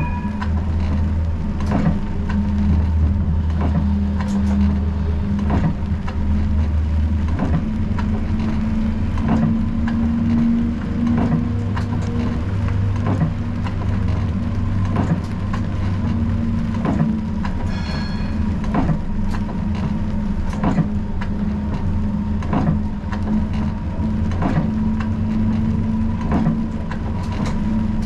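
Siemens Combino tram running along street track, heard from the driver's cab: a steady low running hum with a faint whine, and sharp ticks about every second or so. A brief high ringing tone comes in about two thirds of the way through.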